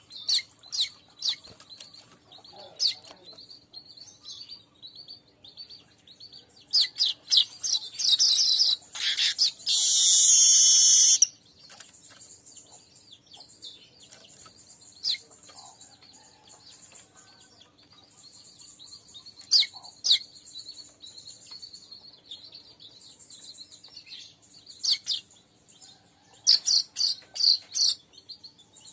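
Streaked weaver (manyar kembang) singing: a series of sharp, high chirps and quick chattering runs, with a loud, harsh buzzing wheeze of about a second and a half near the middle.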